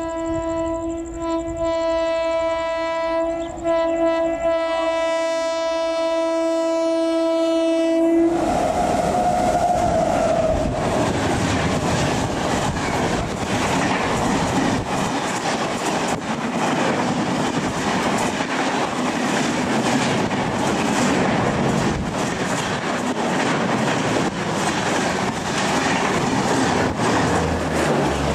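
A WAP-7 electric locomotive sounds one long steady horn as the train approaches, cutting off about eight seconds in. Then the express coaches run past at speed, a loud rush with a fast clatter of wheels over the rail joints.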